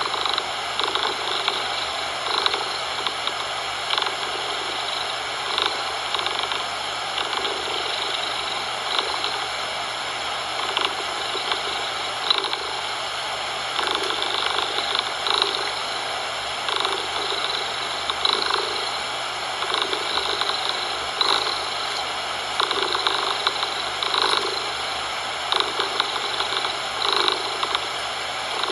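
Domestic cat purring in repeated pulses, one roughly every second, over a steady hiss of synthetic coloured noise.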